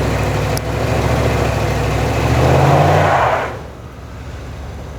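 Vehicle engine revving hard under load while trying to pull a vehicle free from snow, then easing off sharply about three and a half seconds in.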